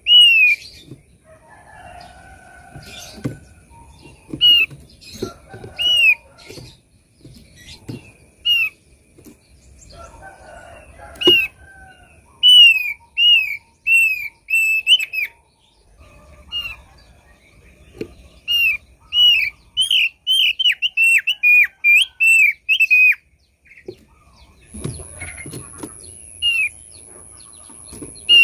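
Thick-billed white-eye calling: short, high, downward-slurred whistled notes repeated in quick runs, with brief pauses between the runs. Faint low knocks sound now and then.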